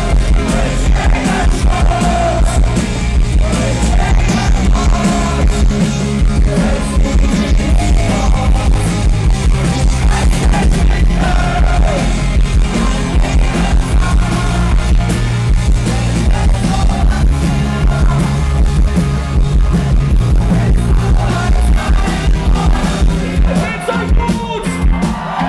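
Live rock band playing loud and fast, with distorted electric guitars, bass and drums under a sung vocal line.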